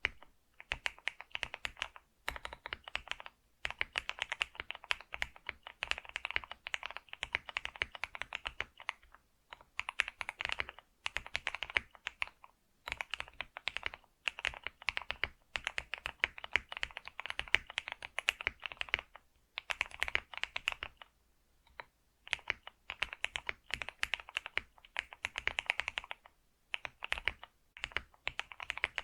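Typing on a computer keyboard: fast runs of key clicks broken by short pauses of about a second.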